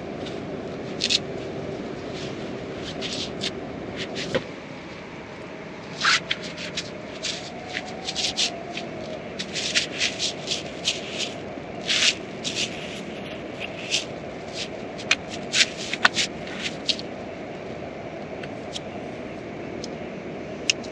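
Steady rain with irregular sharp clicks and rustles, thickest from about six to seventeen seconds in.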